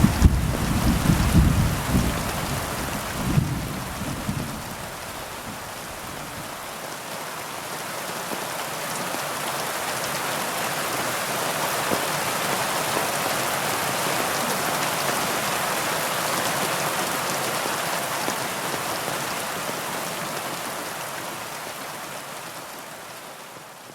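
Heavy rain falling as a steady hiss, with the low rumble of thunder dying away over the first few seconds. The rain fades out near the end.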